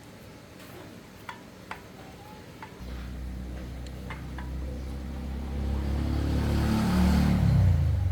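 A few faint clicks, then an engine starts up and runs, growing louder, its pitch sliding down shortly before the sound cuts off abruptly.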